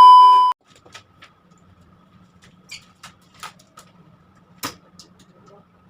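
A loud, steady electronic beep lasting about half a second, then faint scattered clicks and ticks over a low hum, with one sharper click a little before the end.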